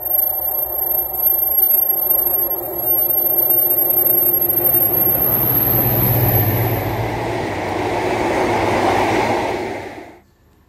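Diesel locomotive passing close by hauling a train of HST power cars. A heavy low engine note peaks about halfway through, and wheel and rail noise builds after it. The sound cuts off suddenly near the end.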